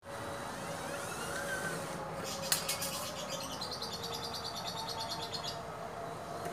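A bird chattering in a fast run of high chirps for about three seconds, starting about two seconds in, over a faint steady background hum.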